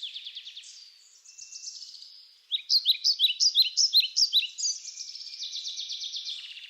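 Songbirds chirping and trilling in quick repeated high notes. They thin out about a second in and come back strongly at about two and a half seconds, at around three or four chirps a second, with faster trills near the end.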